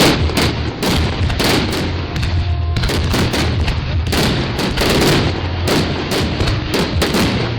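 Aerial fireworks bursting in quick, irregular succession: about twenty sharp bangs over a continuous rumble of further explosions.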